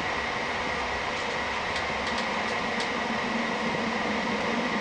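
Inside a moving passenger train coach: steady running noise with a faint high whine, a few light clicks between about one and three seconds in, and a low hum that comes up near the end.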